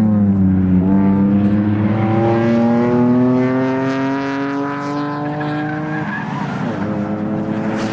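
Nissan 350Z's V6 engine accelerating hard on track. Its note rises steadily for about five seconds, drops sharply about six seconds in, then holds a steadier lower note.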